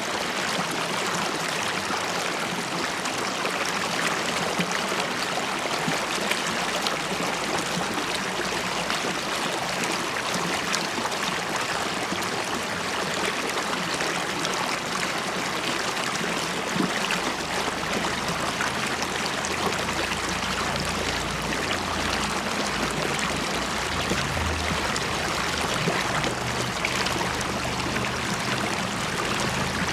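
River water flowing and bubbling steadily over a streambed. From about halfway through, a low rumble sits underneath it for several seconds.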